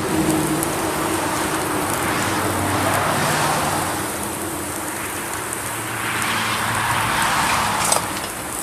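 Beef patties sizzling in a grill basket over a wood and charcoal campfire, a steady hiss, with a faint low hum like passing traffic underneath and a single knock near the end.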